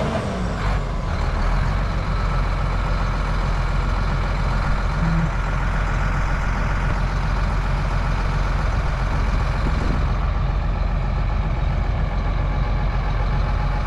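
Heavy diesel engine of earthmoving equipment running steadily, with a strong low hum that stays even throughout.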